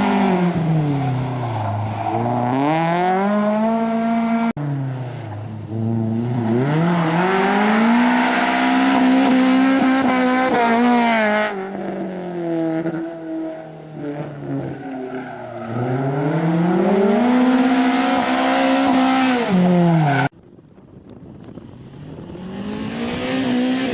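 Honda Civic race car's B20 VTEC four-cylinder engine driven hard, revs climbing and dropping again and again through gear changes and corners. The sound breaks off abruptly a few times between clips.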